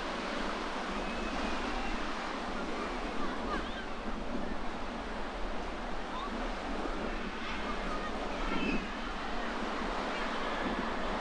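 Sea waves washing against the shore, a steady rushing noise that swells slightly now and then, with wind blowing over the microphone.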